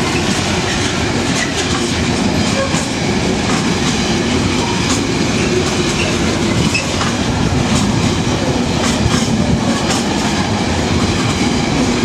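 Class 66-hauled freight train rolling past close by, a loud steady rumble with its wagon wheels clacking over the rail joints.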